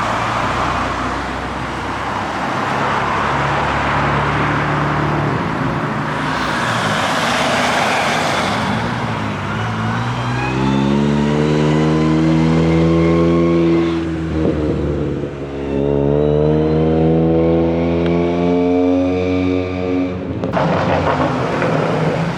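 Car engine accelerating hard: its note climbs steadily through one gear, drops at a gear change, and climbs again through the next, after a stretch of engine and road noise. The sound cuts off suddenly near the end.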